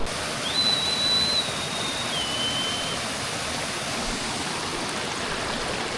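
Waterfall and stream rushing steadily. About half a second in, a single high whistle is held for about two and a half seconds, stepping down in pitch partway through.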